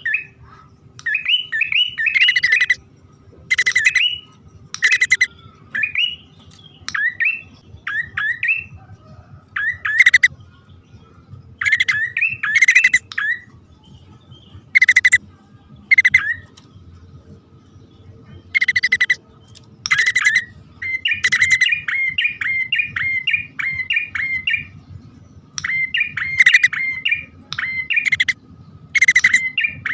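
Prenjak (prinia) calling, male and female, as used to lure the birds. Harsh, scratchy notes alternate with quick rising chirps in bouts a second or two long, with short gaps between them.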